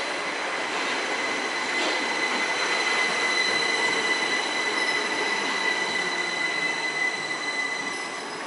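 A Southern electric multiple-unit train runs along the platform with a steady rumble of wheels on rail. Over it lies a steady high-pitched squeal from the running gear, which fades near the end.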